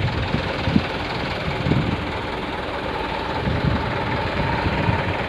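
A truck engine running, a steady rumble with irregular low thumps.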